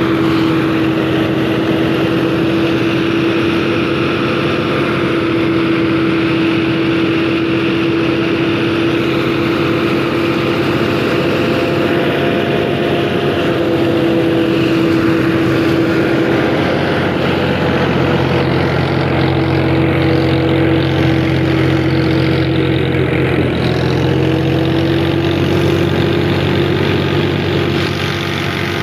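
Tractor diesel engine running steadily under load, driving a rice thresher, with a constant droning whine from the machinery. A deeper engine drone grows stronger about two-thirds of the way through.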